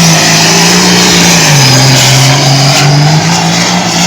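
International 1066 tractor's diesel engine running flat out under load while pulling the sled. Its pitch sags about a second and a half in as the engine is pulled down, then climbs back near the end.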